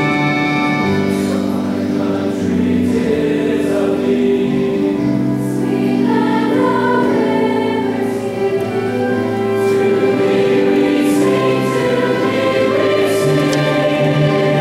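A choir singing a slow song in long, held notes.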